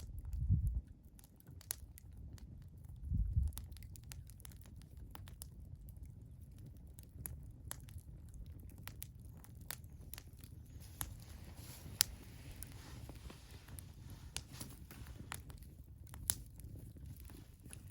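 Wood fire burning, crackling with many irregular sharp pops over a low rumble, with a soft hiss rising in the second half. Two brief low rumbles come near the start.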